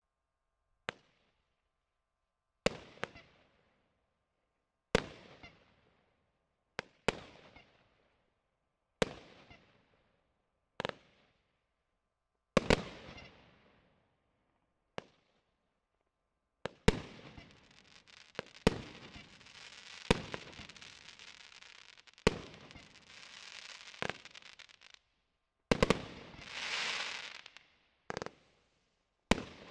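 A 19-shot, 30 mm fireworks cake (battery) firing, each shot a sharp bang followed by a fading crackle. At first the shots come about every two seconds. From about halfway through they come faster, with steady crackling between them and a loud surge of crackle near the end.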